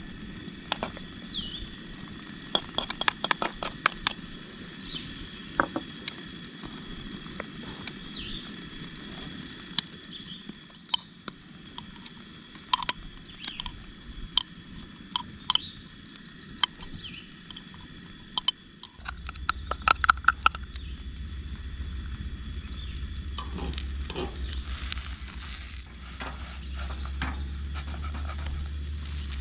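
Camp cooking: utensils clicking and tapping against cookware, with light frying and stirring sounds. About two-thirds of the way through, a low steady hum starts suddenly and continues.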